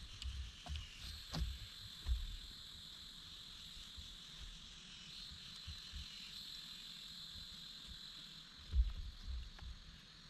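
Rainforest ambience: a steady high insect drone, with scattered low thumps and a few sharp clicks, the loudest thump near the end.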